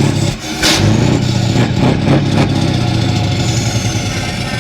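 Scania truck's diesel engine revving: the revs dip briefly, pick up again about half a second in and are held high, easing off slowly toward the end. A short burst of hiss comes as the revs pick up.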